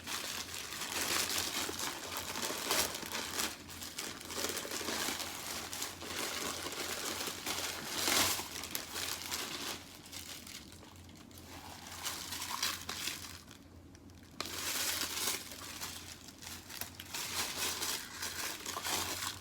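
Crinkly plastic packaging being handled and opened, in irregular bursts of crumpling with a few tearing sounds and brief quieter pauses.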